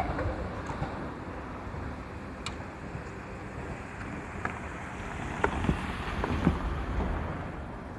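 Tobu 8000 series electric train pulling away after passing the level crossing: a low rumble with a few faint clicks of wheels over rail joints around the middle, and wind noise on the microphone.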